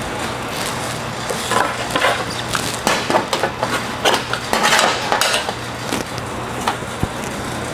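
Sheet-metal fender panel rattling and clinking irregularly against a wire-form buck as it is set on for a trial fit, over a steady low shop hum.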